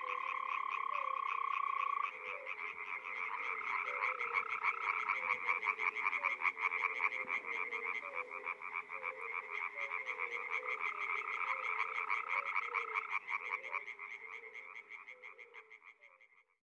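Chorus of European tree frogs calling, several males overlapping in fast rapid-fire croaking series, with a quieter run of short lower notes repeating beneath. The chorus fades out near the end.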